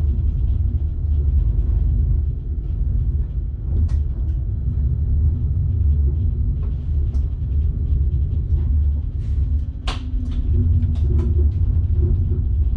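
Train running, heard from the driver's cab: a steady low rumble with scattered faint clicks, and one sharp knock about ten seconds in.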